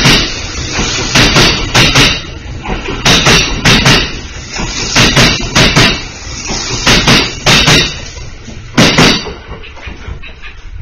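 Kintetsu 50000 series Shimakaze limited express passing through the station without stopping: its wheels clatter over rail joints in pairs of sharp knocks, one pair about every second, over a steady rolling rumble. The last knocks come about nine seconds in, and the rumble fades as the rear car pulls away.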